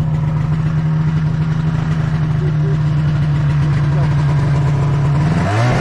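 Snowmobile engine running at a steady pitch. About five seconds in, the engine note drops briefly and then climbs back up.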